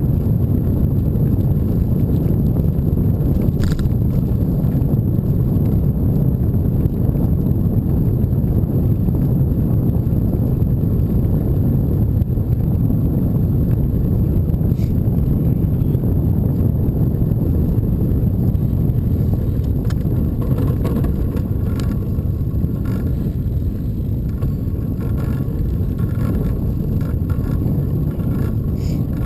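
Steady low rumble of wind buffeting the microphone and road noise from a moving bike, with a few faint clicks and rattles.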